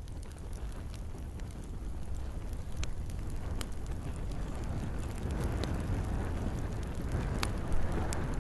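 Wood campfire crackling, with scattered sharp pops over a steady low rush of flame and a light patter of rain; one louder pop near the end.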